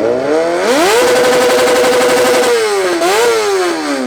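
An engine revved hard through a loud exhaust. It climbs quickly and holds at a steady top pitch for about a second and a half, then dips, rises sharply once more and falls away near the end.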